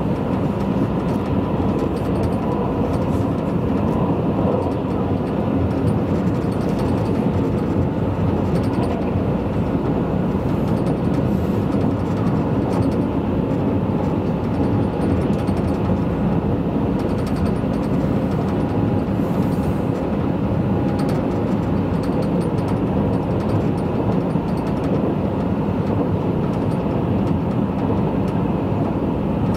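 Steady running noise inside a Tobu 100 series Spacia limited express electric train at speed: an even rumble of wheels on rail, with a faint high hum over it.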